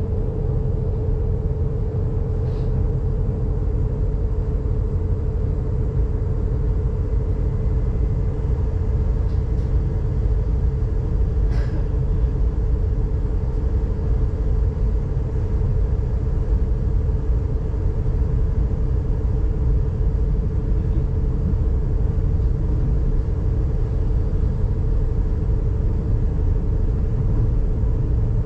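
Electric S-Bahn commuter train heard from inside the passenger cabin: a steady low rumble with a constant hum as the train pulls out of a station and runs on along the track.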